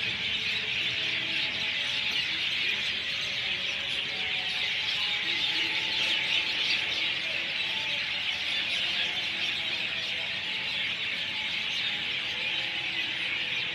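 A dense chorus of many small birds chirping at once, a steady wash of high twittering with no single call standing out.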